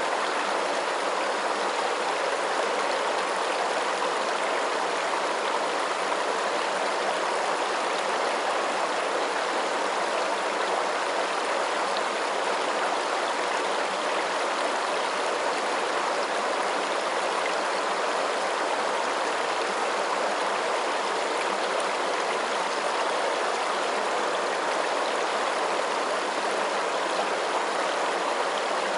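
Continuously running water making an even, steady rushing sound with no breaks or changes.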